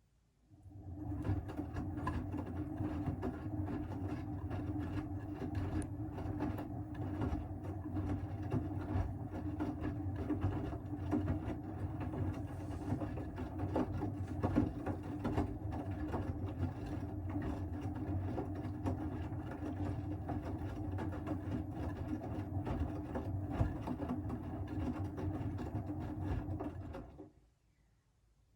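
Siemens WM14T490 front-loading washing machine's drum turning during a wash cycle, starting about a second in and stopping shortly before the end, running rough with a steady hum and constant fine rattling: the sound of a damaged drum bearing.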